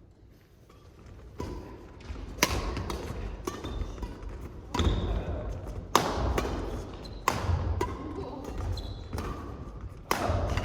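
Badminton rally: rackets striking the shuttlecock with a sharp crack about every second to second and a half, starting about a second and a half in, with the echo of a large hall.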